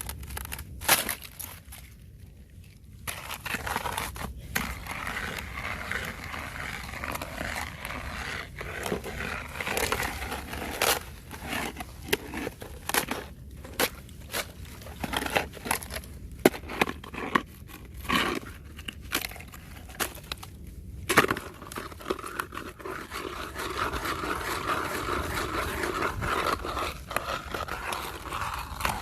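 Fresh thin ice crunching, crackling and scraping as it is stepped on and broken, with many sharp cracks.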